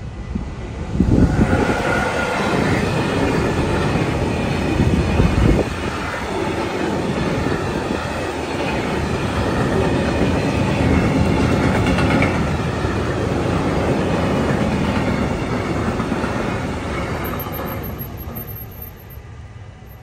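Freight train passing at speed over a level crossing. The locomotive comes in suddenly and is loudest in the first few seconds, then the wagons rumble and clatter steadily over the rails, and the sound fades away near the end.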